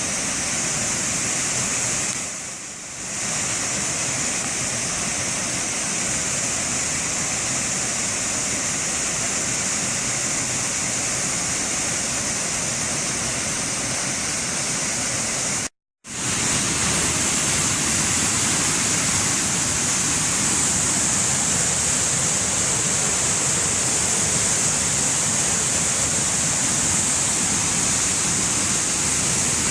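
Waterfall rushing: a steady, loud wash of falling water. It dips briefly a couple of seconds in and drops out for an instant about halfway through.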